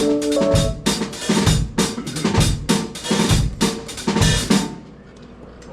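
A drum kit played live, kick, snare and cymbals in a steady beat of about two kicks a second, with a few held instrument notes near the start, typical of a soundcheck. The playing stops about five seconds in, leaving a low steady hum.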